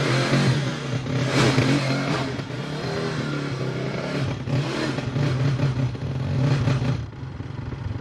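Motorcycle engine running with its repaired ignition coil, the engine note rising and falling slightly, then dropping away about seven seconds in.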